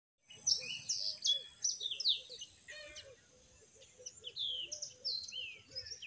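Birds chirping: many quick, high calls that fall in pitch, with a softer, lower call repeating beneath them.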